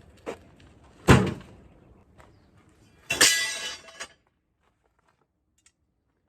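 A light knock, then a loud thud about a second in, followed around three seconds in by a short, bright rattling clatter.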